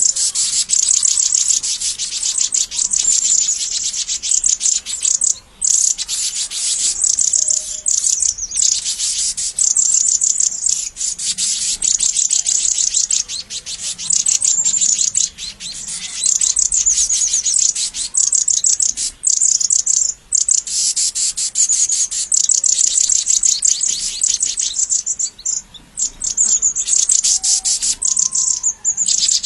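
Birds chirping: loud, dense, rapid high-pitched chirps repeated many times a second, with a few brief breaks.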